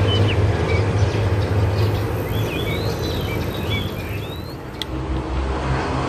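Small birds chirping in short, quick notes over a steady low traffic rumble; the chirping stops about four and a half seconds in, and a sharp click follows.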